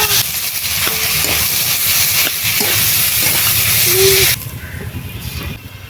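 Crab and banana-flower curry sizzling loudly as it fries in a hot kadai; the hiss cuts off suddenly about four seconds in.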